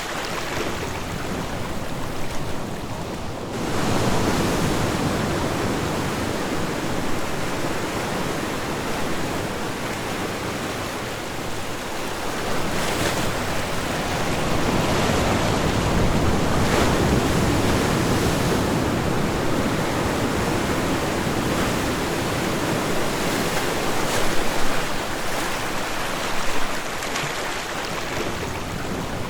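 Ocean waves washing onto a shore, a continuous rush of surf that swells and eases as waves come in, with a little wind on the microphone.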